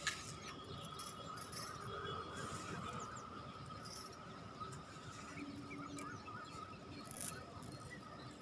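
Quiet outdoor background with a steady faint high hum and scattered faint bird chirps, and a single click at the start.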